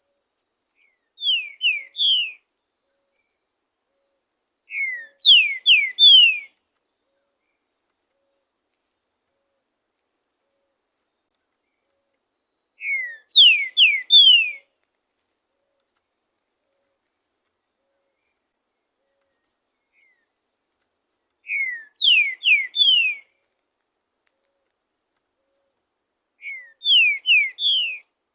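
Green-winged saltator (trinca-ferro) singing: five short phrases, each of three or four clear, falling whistled notes, separated by long pauses.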